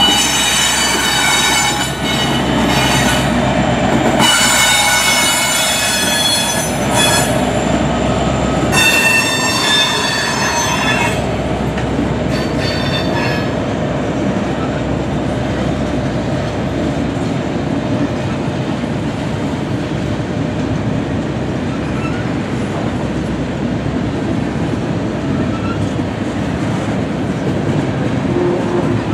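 Freight train rolling past at close range. A trailing diesel locomotive's engine runs in the first seconds, along with high, ringing wheel squeal that fades after about ten seconds. After that comes the steady rolling rumble of the freight cars.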